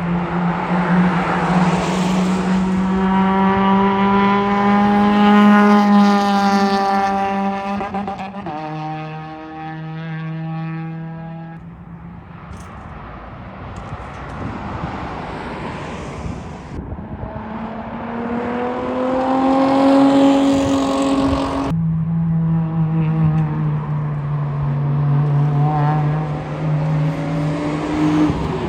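Sports car engines running hard on a race track, the engine note climbing as the cars accelerate. The sound changes abruptly a few times.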